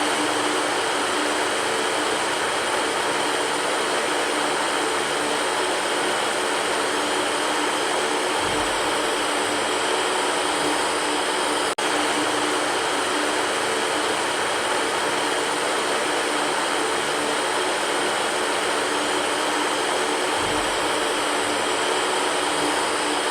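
Electric fan running steadily: an even rushing noise with a faint steady hum in it, broken by a split-second dropout about halfway through.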